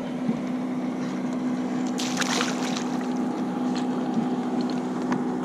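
A steady motor hum holding one pitch, with a brief clatter about two seconds in.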